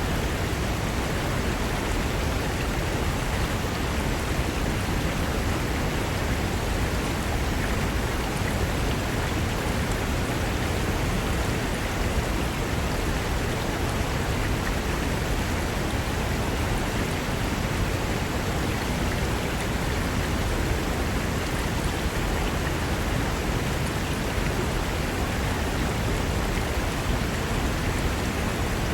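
Fast mountain river rushing over rocks: a steady, even rush of water.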